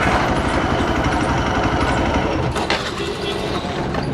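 Single-cylinder engine of a Hero Xpulse 200 motorcycle idling steadily, with a fast even pulse, under some voices. It eases a little lower just past the middle.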